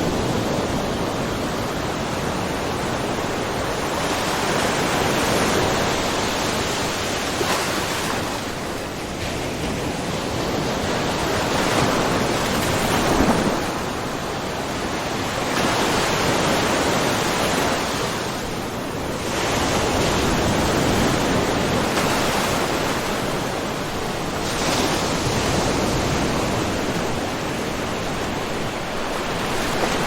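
Small ocean waves lapping and splashing in a rocky cove: a continuous wash of water that swells and eases every few seconds, with one louder splash a little past the middle.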